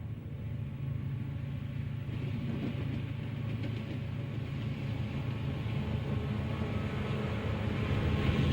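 Diesel locomotive running with a steady low engine hum, slowly getting louder as the train approaches, along with a rising hiss of wheel and rail noise.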